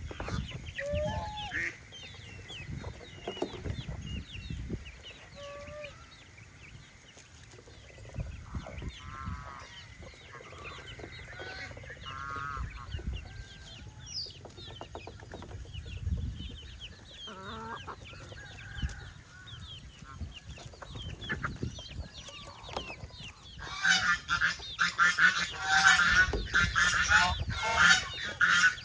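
Poultry calling: many young birds peeping in quick, high chirps, with occasional clucking calls. About 24 seconds in, loud goose honking breaks out and keeps going.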